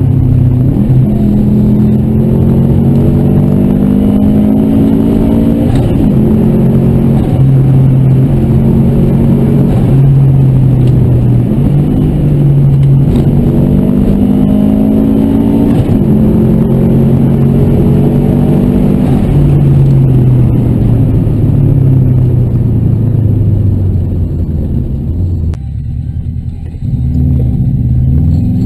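The turbocharged flat-four of a Subaru Impreza WRX STi Version 5, heard from inside the cabin, pulling through the gears: its pitch climbs and drops back at each upshift several times. Later it falls away as the car slows, goes quieter briefly, then picks up again near the end.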